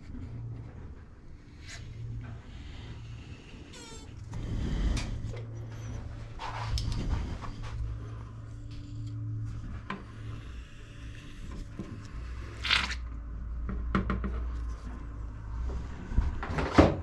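Clunks, knocks and scrapes of a Stiga walk-behind lawnmower being handled and inspected, over a low steady hum. A sharp click near the end is the loudest sound.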